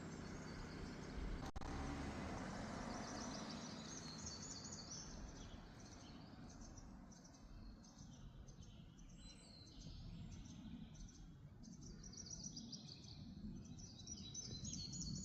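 Small birds chirping and trilling in rapid runs of high notes that come and go, over a low steady background rumble of outdoor ambience.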